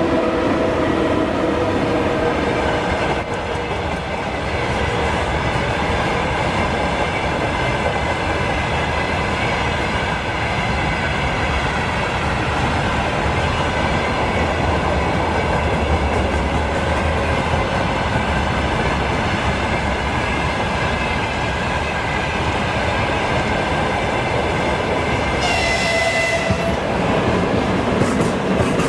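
Freight train hauled by a 2ES7 electric locomotive running past, with a steady noise of wagon wheels on the rails. A brief tone sounds about three seconds before the end.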